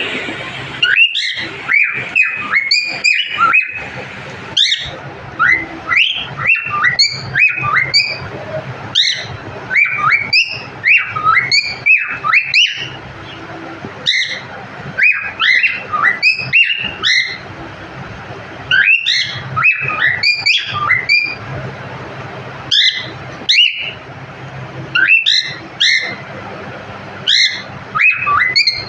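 Cockatiel chirping and whistling: short sweeping whistled notes in quick runs, broken by pauses of a second or two.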